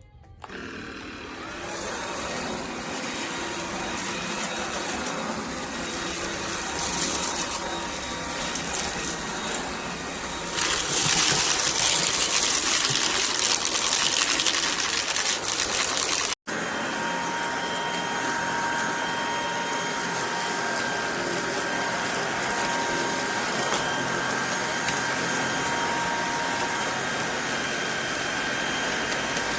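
FABULETTA cordless brushless stick vacuum running with a steady whooshing motor noise. About ten seconds in it gets louder for several seconds. It cuts out for an instant, then runs on steady with a faint whine.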